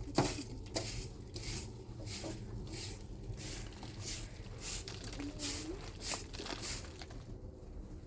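Rhythmic scraping strokes, about two a second, that stop about seven seconds in.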